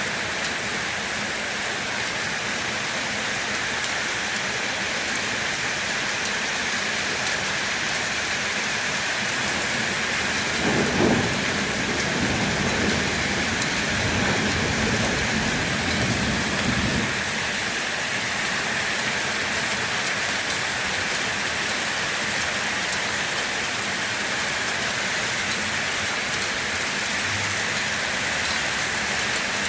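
Steady heavy rain falling. About ten seconds in, a low roll of thunder rumbles for several seconds, loudest at its start, then fades back under the rain.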